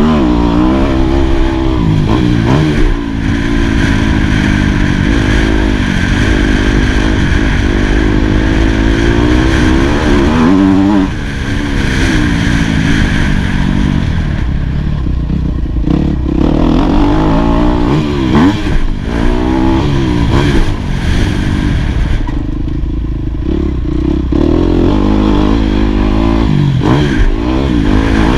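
2018 Yamaha YZ250F's four-stroke single-cylinder engine revving hard, the pitch climbing and dropping again and again as the bike accelerates, shifts and backs off.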